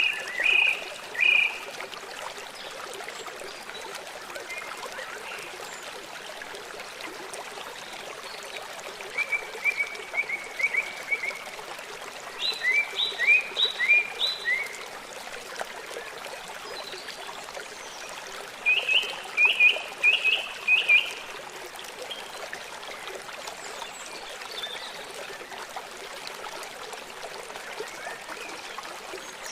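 Steady rush of flowing water, with songbirds singing over it in several short phrases of quickly repeated chirping notes: one at the start, a run of phrases in the middle, and another about two-thirds through.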